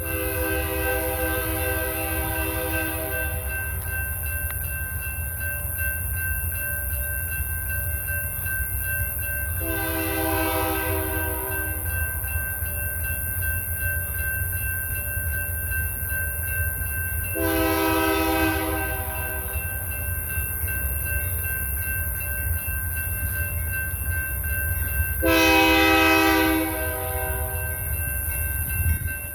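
BNSF freight train rolling through with a steady low rumble. The locomotive's air horn sounds four long blasts, roughly eight seconds apart.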